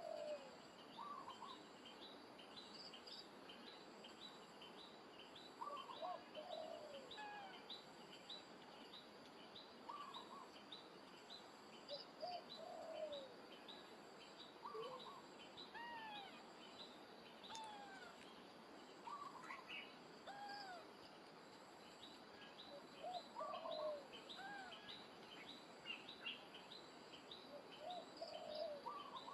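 Faint outdoor birdsong: a steady run of short high chirps about twice a second, with lower arched calls every few seconds.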